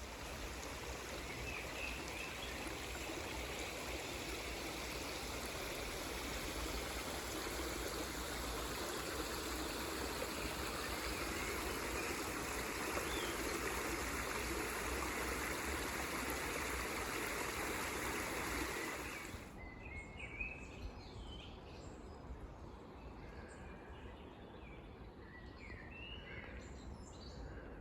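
A stream rushing steadily, with birds chirping faintly over it. About two-thirds of the way through the water sound cuts off abruptly, leaving quieter woodland with scattered short bird calls.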